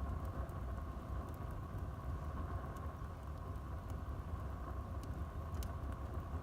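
Wood fire burning in a fireplace: a steady low rush with a few faint crackles, the clearest two near the end.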